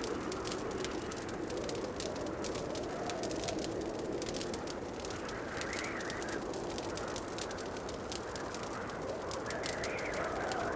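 Wood fire crackling in a fireplace: many fine, irregular pops over a low rushing sound that swells and fades every few seconds.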